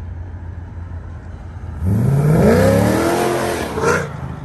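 Chevy SS's LS3 V8 with long-tube headers and stock mufflers running low and steady, then revved once about two seconds in: the pitch climbs, peaks and drops back, with a short sharp blip as it comes down.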